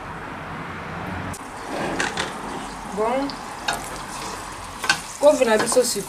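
Food sizzling in a pot with a steady hiss, and a utensil knocking and scraping as it is stirred. Brief talking joins near the end.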